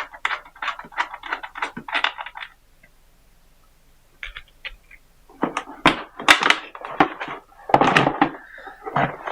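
Thumps and clatter of a battery and battery box being handled while the battery is fitted and connected. There is a pause of a few seconds in the middle, and louder thumps come in the second half.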